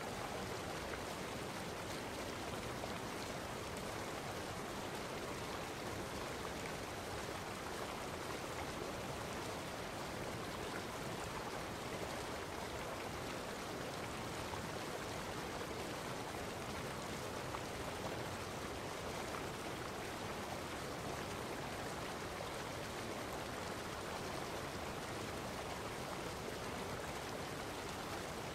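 Steady, unbroken rushing of running water, even throughout.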